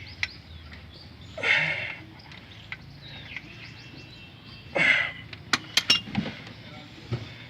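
Workshop sounds: two short hissing bursts, then a quick run of sharp metallic clinks with a brief ring, like hand tools striking metal.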